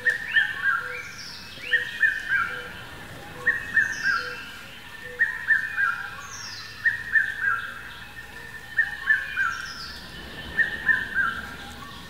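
A bird singing the same short phrase over and over: three or four quick falling notes, repeated about every second and three quarters, with higher falling notes in between.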